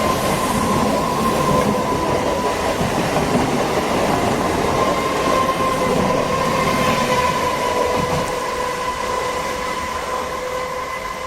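Electric multiple-unit local train running past: wheels rumbling on the rails under a steady high whine, the sound growing quieter over the last few seconds.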